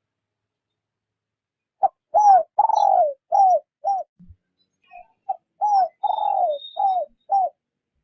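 Spotted dove kept as a decoy bird, cooing gently in the 'rút bổi' style. It gives two phrases of about five coos each, about two seconds in and again past the middle, and in each phrase the second coo is drawn out longer than the rest.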